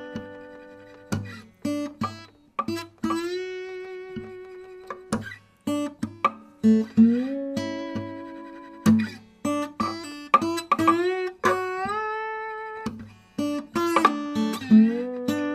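Background music: a slow, plucked guitar melody. Its notes are struck one by one and left to ring out, and several slide upward in pitch after they are struck.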